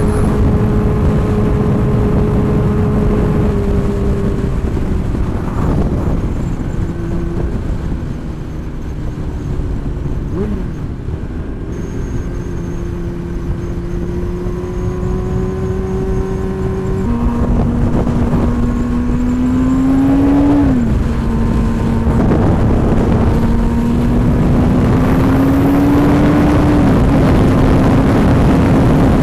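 Motorcycle engine running while riding, its note climbing slowly under throttle and stepping with gear changes several times, with a quick dip and rise about ten seconds in, over steady wind noise.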